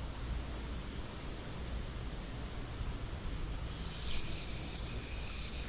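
Crickets or similar insects trilling steadily at a high pitch, over an even outdoor background hiss.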